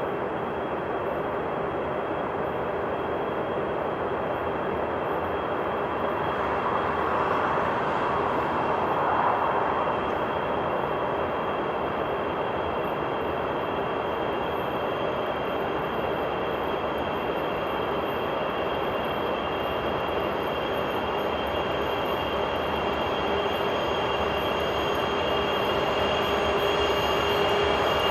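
Freight train hauled by a 2TE116 diesel locomotive running past: a steady rolling rumble of wheels on rail with a steady whine through it, growing louder near the end.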